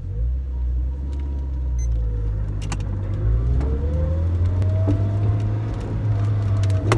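Toyota AE86 Trueno's 4A-GE twin-cam four-cylinder engine heard from inside the cabin, running at low revs as the car drives off, with a pitch that rises from about halfway through as it gathers speed. A sharp click comes a little before the middle.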